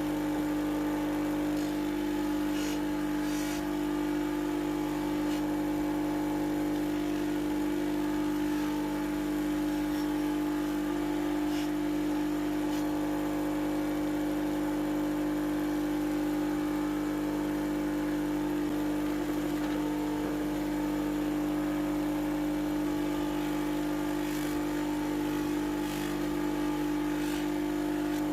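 Electric grinding or polishing machine running steadily with an unchanging hum, with a few faint clicks.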